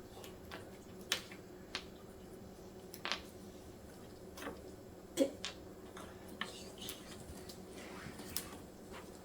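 Scattered light clicks and taps, about a dozen at irregular intervals, from baby hamsters moving about and handling things, over a steady low hum. The loudest tap comes about five seconds in.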